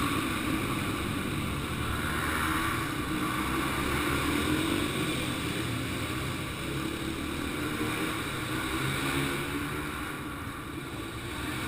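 Yamaha TT-R 125 dirt bikes' small single-cylinder four-stroke engines running hard around a dirt track, the pitch rising and falling as the throttle is worked.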